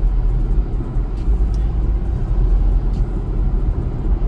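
Steady low road and tyre rumble inside an electric car's cabin at highway speed, about 73 mph.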